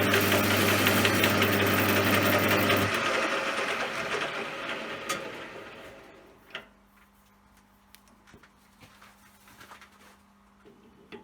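CJM360 bench lathe running loudly, then switched off about three seconds in; the spindle and gear train wind down over the next few seconds. A few light clicks and a faint steady hum follow.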